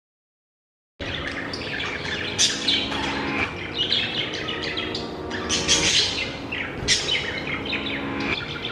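Budgerigars chirping and chattering in a busy run of quick high notes and trills, starting abruptly about a second in.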